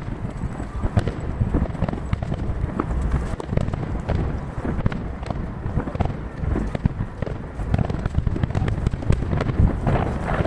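Distant aerial firework shells bursting in rapid succession, a dense run of booms and cracks over a continuous rumble of echoes. The audio is sped up to three times normal speed, which packs the bursts tightly together.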